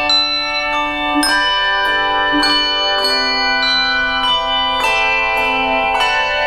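Handbell choir playing music: chords of several bells struck together and left ringing, with new notes and chords struck every second or so.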